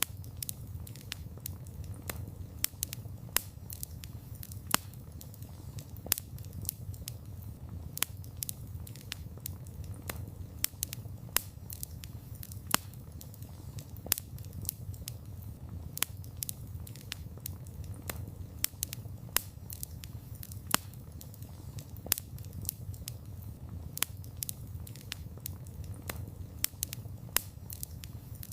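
Campfire of burning wood crackling: irregular sharp pops and snaps, several a second, over a low steady rumble.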